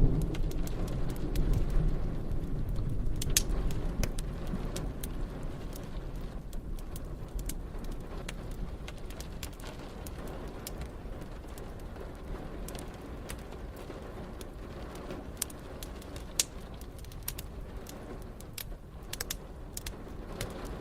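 Rolling thunder rumbling in the first few seconds and slowly fading, over steady rain and the sharp pops and crackles of a wood fire.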